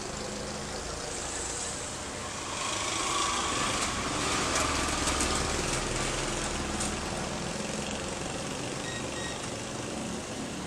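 A motor vehicle's engine running under a steady rushing noise, a little louder for a couple of seconds in the middle.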